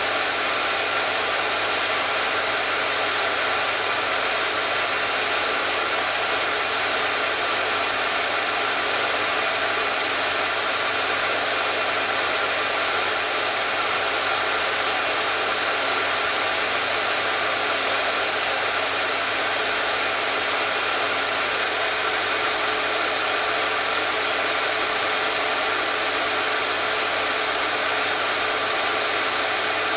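Hair dryer running steadily: an even, unchanging rush of air noise with a faint steady hum underneath.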